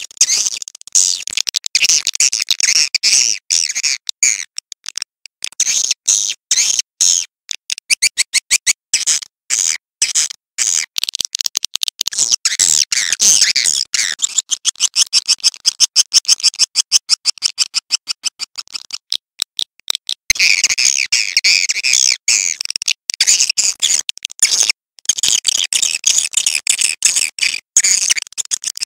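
Recorded swiftlet calls: fast, continuous trains of high chirps and clicks, many each second, broken by a few short pauses.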